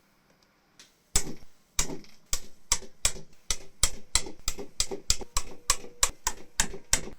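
A rapid series of about seventeen sharp knocks, roughly three a second. They start about a second in and stop abruptly.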